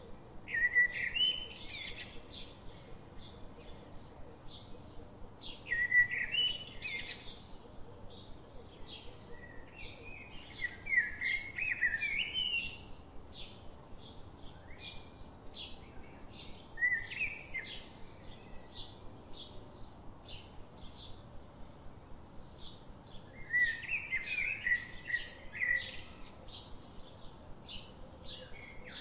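Small songbirds chirping and singing: a steady run of short high chirps, about two a second, with louder song phrases every few seconds.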